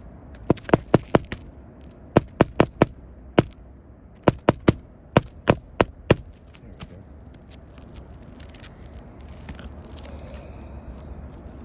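Hammer driving roofing nails into asphalt shingles: quick runs of sharp strikes, a few blows a nail, through the first six seconds, then only faint taps.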